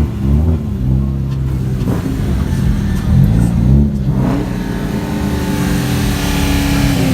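Car engine revving, its pitch climbing and dropping twice, near the start and again about three seconds in, then running at a steady pitch.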